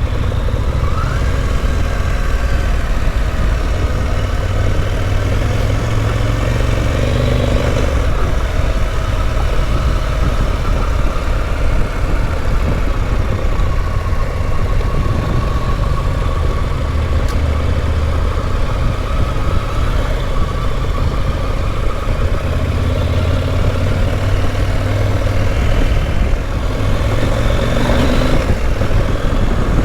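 Dual-sport motorcycle engine running steadily while riding a dirt road, its pitch shifting slightly a couple of times, over a constant rushing noise.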